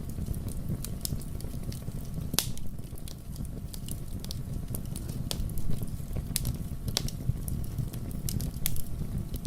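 Wood fire burning in a fireplace: a steady low rumble of flames with irregular crackles and sharp pops of burning wood, the loudest pop about two and a half seconds in.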